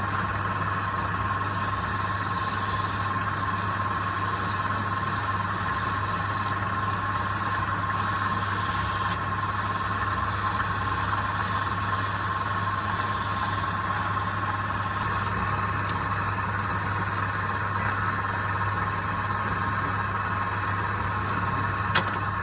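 Electric woodworking machine motor running steadily, with a constant high whine over a low hum. One sharp click comes near the end.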